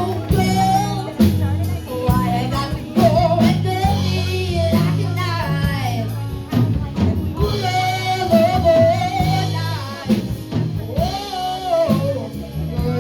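Live band music: a singer's melody over guitar and bass, with a steady drum beat.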